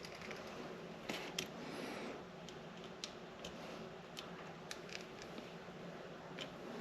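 Small, irregular clicks and ticks of hand tools and wiring being handled while a light switch is wired up.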